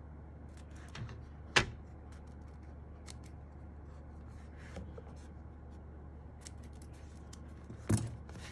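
Handling sounds of foam sheet being cut and fitted inside a keyboard case: scattered light clicks and scrapes, with two sharp knocks, one about a second and a half in and a louder one near the end.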